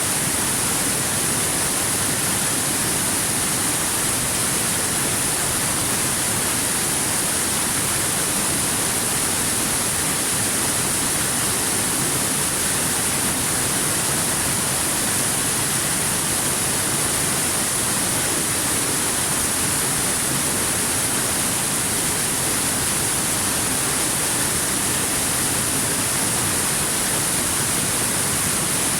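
Waterfall: a steady rush of falling water, an even hiss that never changes.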